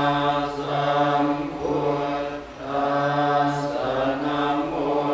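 Buddhist chanting by a group of low voices in unison, in long held, near-monotone phrases broken by short pauses for breath.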